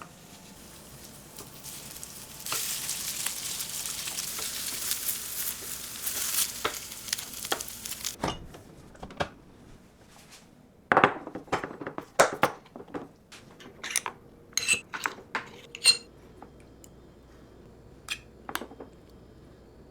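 Food sizzling in a hot frying pan, growing louder about two and a half seconds in and cutting off suddenly partway through. Then a run of sharp clinks and knocks of utensils against a pan or dish, with a couple more near the end.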